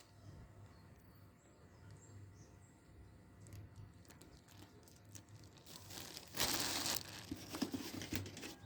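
Packaging being handled during an unboxing: faint crinkling and small clicks, then a loud half-second rush of crinkling about six and a half seconds in, followed by more rustling.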